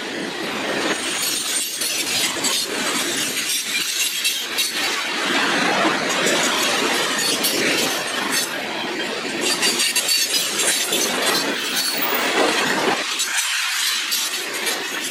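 Freight train passing: a continuous rush of steel wheels on rail with frequent sharp metallic clanks and rattles from the cars.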